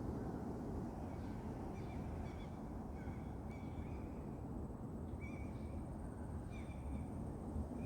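A bird calling with short, repeated, clear notes, about one every half second to a second, over a steady low background rumble.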